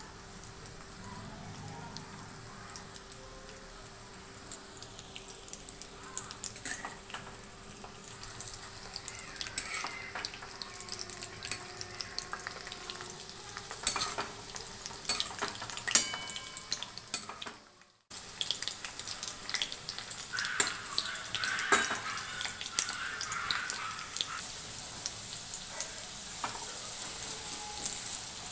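Shrimp and green-banana koftas sizzling in hot mustard oil in a kadai, with a steady hiss, crackling spatters, and the scrape and knock of a spatula turning the balls. The sound breaks off for a moment about two-thirds of the way through.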